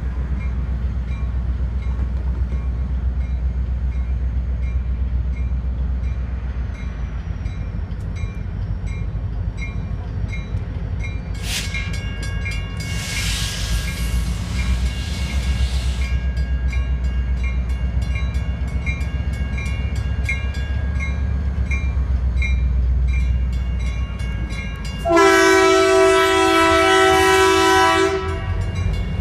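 Train passing, with a steady low rumble and a regular ticking about twice a second. A hiss rises for a few seconds about halfway in, and near the end the train's horn sounds one loud, three-second chord.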